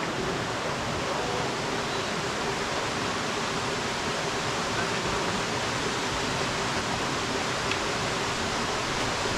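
Waterfall, its falling water making a steady, even rushing noise.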